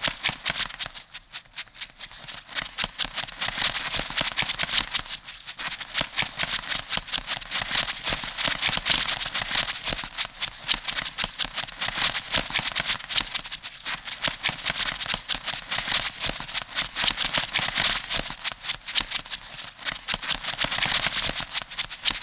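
Crab sound effect: a dense, unbroken stream of rapid, sharp clicks and rattles, as of claws and legs clattering. It eases briefly about a second in and again about five seconds in.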